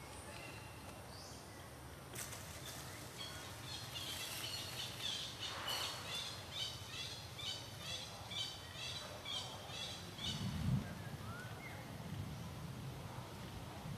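Outdoor forest ambience with a bird calling in a steady series of high chirps, about two a second, that stops about ten seconds in. A short low thump follows, the loudest sound.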